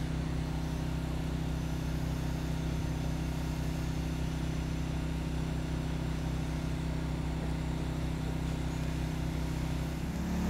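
Heat gun running steadily with a low, even hum as it pre-heats a new nitro RC engine's head and block before its first start-up. Just before the end the hum dips briefly, then comes back louder.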